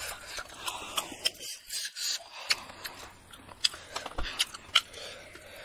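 Close-up eating sounds of a child chewing rice and egg curry: an irregular string of wet mouth smacks and clicks.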